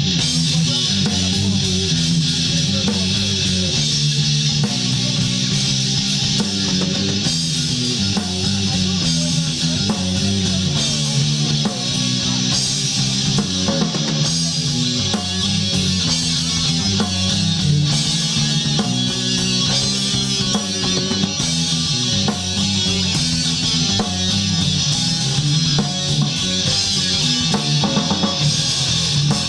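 Live rock band playing: electric guitar and drum kit with a steady beat.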